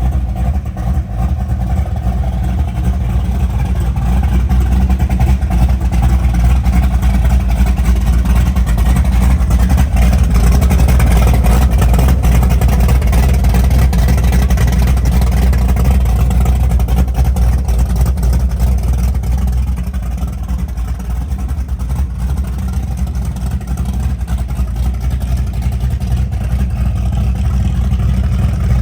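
Hot-rodded 460 big-block Ford V8 with headers running, a steady deep rumble that grows louder through the middle and eases briefly later on.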